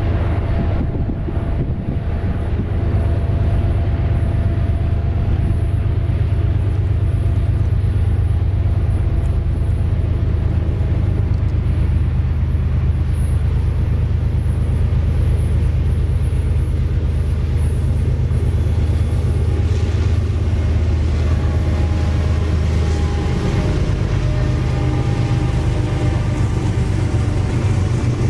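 Diesel freight locomotive engines running, a loud steady low drone with faint engine tones above it; the engine note changes about three-quarters of the way through.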